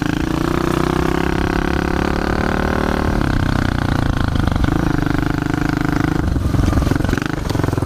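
Small pit bike engine running while the bike is ridden. Its pitch climbs slightly under throttle, drops about three seconds in as the throttle eases, then holds fairly steady.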